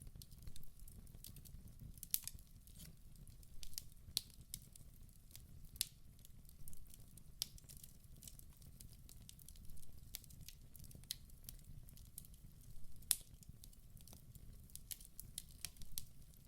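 Wood fire burning in a fireplace: sharp, irregular crackles and pops over a low, steady rumble of flame.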